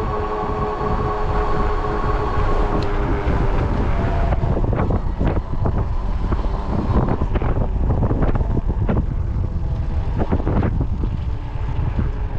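Wind buffeting the microphone with a steady low rumble while riding an e-bike. For the first two to three seconds the electric hub motor's steady whine is heard, then it fades, and irregular knocks and rattles follow.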